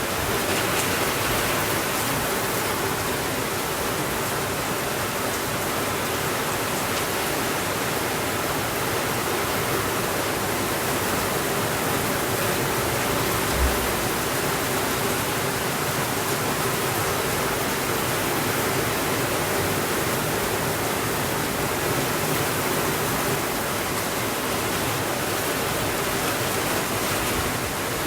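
Heavy rain falling steadily on a window, an even rushing hiss. About halfway through there is a single short low thump.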